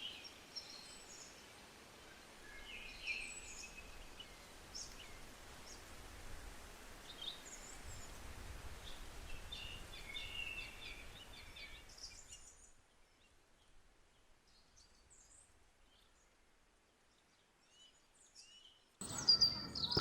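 Birds chirping over a faint outdoor hiss. After about twelve seconds it drops to near silence with only a few scattered chirps, and louder chirps come back near the end.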